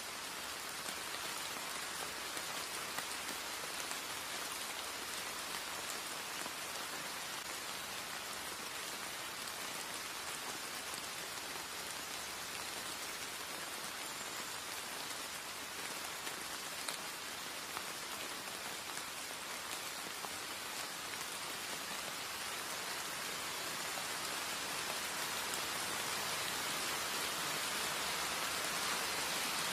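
Light rain falling steadily, an even hiss that grows a little louder over the last few seconds.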